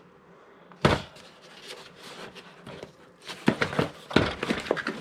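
Handling sounds as a model train car and its packaging are put down and picked up: a sharp thump a little under a second in, then a run of clicks and rustles that grows busier near the end.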